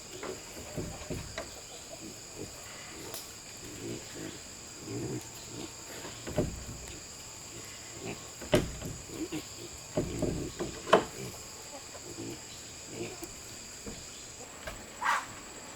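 Steady high-pitched insect chirring, typical of crickets, with scattered knocks and thumps over it; the sharpest knocks come a little past halfway and one near the end.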